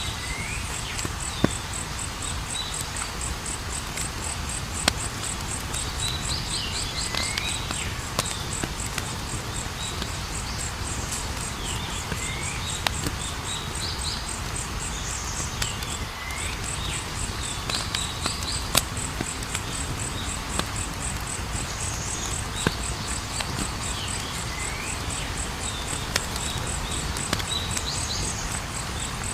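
Campfire crackling, with scattered sharp pops a few seconds apart, over a steady high pulsing trill of crickets. A short chirping call repeats every few seconds.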